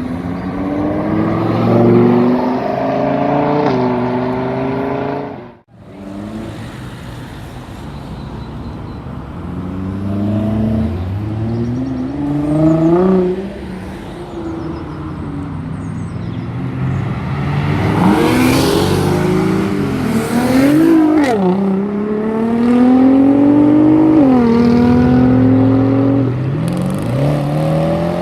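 Sports car engines revving hard and accelerating past one after another, each rising in pitch and then falling away. The sound drops out briefly about five and a half seconds in.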